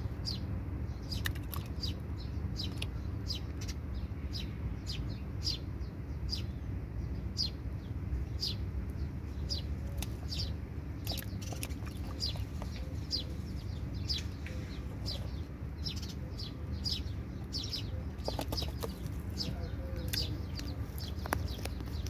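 A baby bird cheeping over and over in short, high chirps, about two a second, over a low steady rumble.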